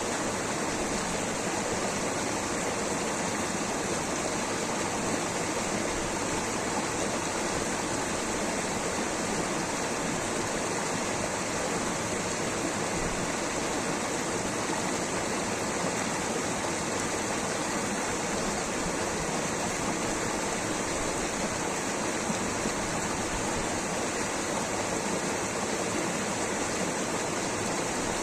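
Water rushing steadily, a constant even rush with no break or change in level.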